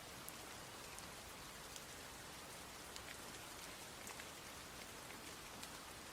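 Steady rain falling: an even hiss, with scattered sharp ticks of individual drops striking nearby surfaces.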